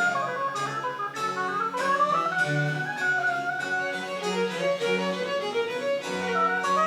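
Baroque chamber ensemble playing French Baroque music, a violin carrying a moving melody over sustained low bass notes.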